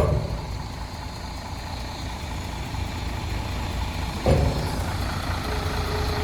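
Truck engine running steadily with a low rumble, with two sudden louder thumps, one at the very start and one about four seconds in.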